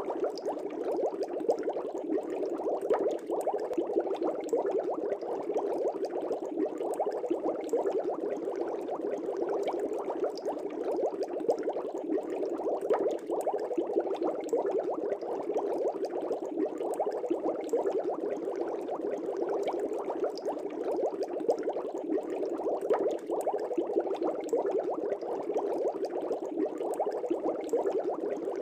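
Air bubbles in a fish tank, bubbling steadily as a dense, even stream of small pops.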